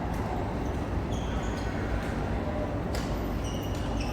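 Badminton rally in a hall: a racket strikes a feather shuttlecock with a sharp crack about three seconds in, over steady hall noise and short high squeaks.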